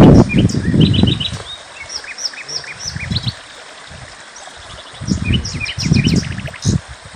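Small songbirds chirping and twittering in short, quick notes and trills throughout, over louder low muffled bursts near the start and again about five to seven seconds in.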